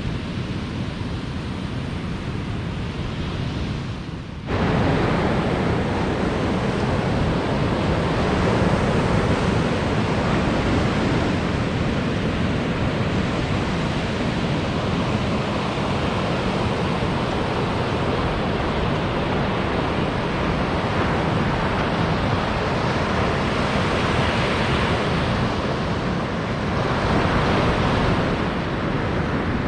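Ocean surf washing onto a beach: a steady rush of breaking waves that jumps suddenly louder about four and a half seconds in.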